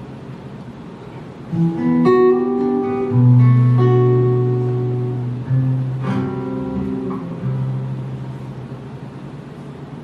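Acoustic guitar playing a slow introduction: chords struck about six times, each left to ring and fade.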